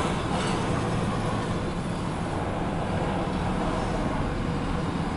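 Empty steel coal hopper cars rolling on the rails: a steady rumble of wheels on track.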